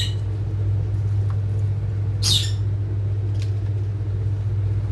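A rosy-faced lovebird gives one short, shrill squawk about two seconds in, after a brief chirp at the start, over a steady low hum.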